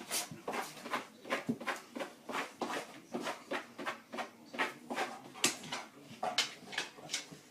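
A dog making a quick, irregular series of short, breathy noises, about two or three a second.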